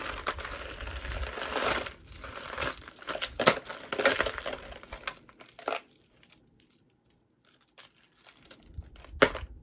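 Beaded jewelry and metal chain handled, beads and clasps clinking and rattling, with a few sharp clacks.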